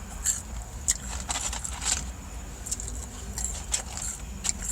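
Scattered light clicks and rattles of small objects being handled, over a steady low rumble.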